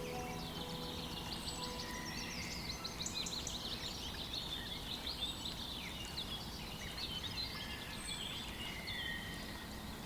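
Small birds chirping and twittering, many quick overlapping calls, over a steady hiss of outdoor ambience.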